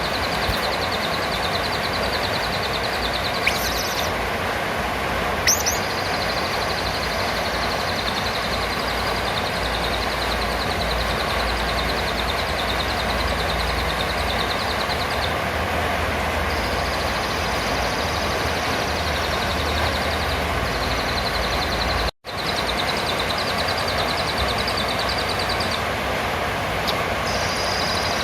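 Blue-crowned hanging parrot (serindit) calls: a high, fast-pulsed trill that stops and starts several times, with two short, sharp high chirps a few seconds in. A steady background hiss runs under it, with a brief cut-out a little after the middle.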